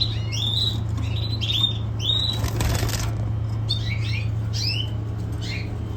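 Caged canaries chirping in short repeated notes, with a brief flurry of wing-flapping about two and a half seconds in, over a steady low hum.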